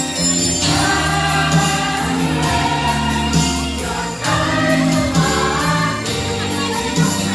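Choir singing Christmas music with instrumental accompaniment and a steady beat.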